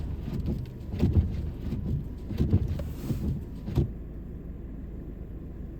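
Car interior road noise while driving on snow: a low rumble with several irregular thuds. About four seconds in, the higher-pitched noise drops away suddenly, leaving a steadier, quieter low hum.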